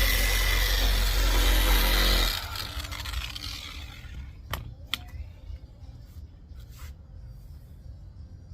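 Bauer dual action polisher buffing a headlight lens with cutting compound, then switched off a little over two seconds in and winding down. A few light clicks follow.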